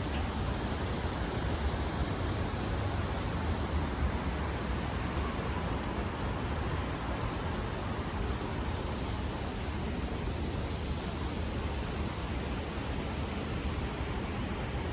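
Wind buffeting the microphone: a steady rumbling roar, heaviest in the lowest tones, over a wash of city street noise.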